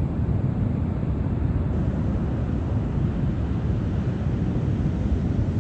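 Low, steady rumble of wind buffeting the microphone, mixed with ocean surf.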